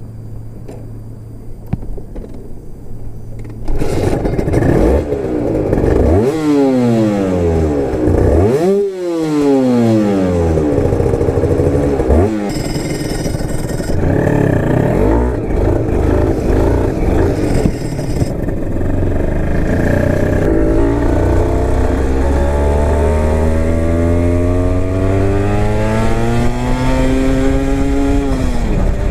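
Honda NSR250R's two-stroke V-twin through a DOGFIGHT expansion-chamber exhaust. It runs low at first, then about four seconds in it is revved hard, the pitch climbing and dropping sharply several times. Near the end comes one long, slow climb in revs that falls away abruptly.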